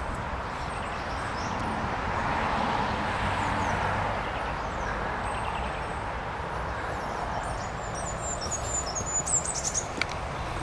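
Outdoor ambience: a steady rushing noise with small birds chirping high above it, and a quick run of high chirps near the end.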